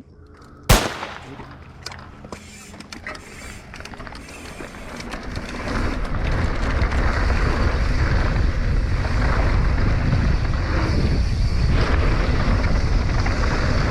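Mountain bike ride picked up by a helmet or bike-mounted camera, with a sharp click about a second in and scattered rattles and ticks. From about five seconds in, rushing wind on the microphone and tyre rumble grow loud as the bike gathers speed downhill.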